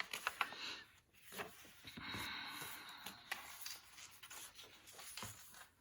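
Paper pages of a handmade junk journal rustling and sliding as they are turned, with a few light clicks in the first second.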